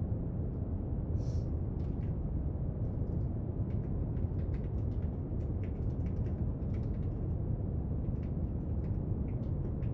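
Steady brown noise with scattered small clicks and taps from desk work on top, and a brief rustle about a second in.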